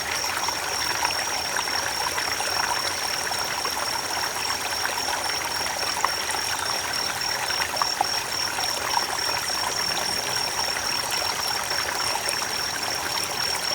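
Creek water running steadily over stones, an even rushing with small splashes and trickles. A steady, faintly pulsing high-pitched tone sits over it.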